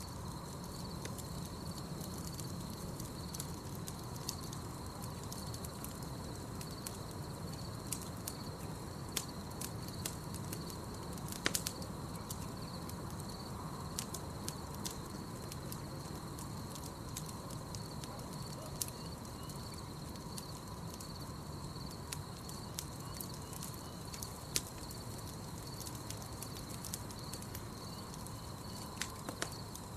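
Campfire crackling with irregular sharp pops, a few louder ones scattered through, over a low steady rumble of burning. A constant high, slightly wavering chirring of night insects such as crickets runs underneath.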